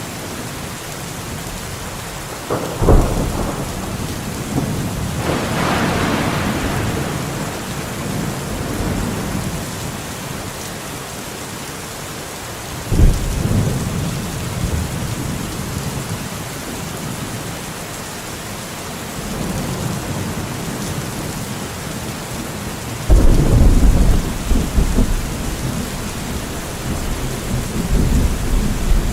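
Steady rain falling in a forest, with several sudden rumbles of thunder: one about three seconds in, a longer one a few seconds later, another about halfway, and the loudest, deep rolling rumble starting near the end.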